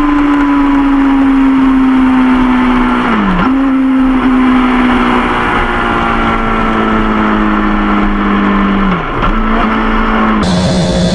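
Suzuki GSX-R sport bike's four-cylinder engine running hard at speed, a steady high engine note that slowly falls in pitch, with wind noise. Twice the note dips sharply and picks up again as gears change: once about three seconds in, and again near nine seconds. Near the end the sound changes abruptly.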